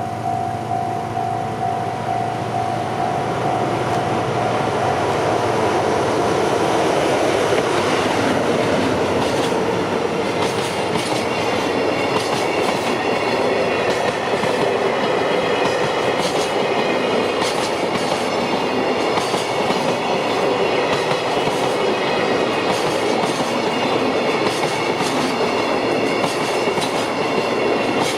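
JR Freight freight train passing close by: a DF200 diesel-electric locomotive followed by a long string of container flatcars. The wheels click steadily over the rail joints. A steady ringing tone fades out about five seconds in.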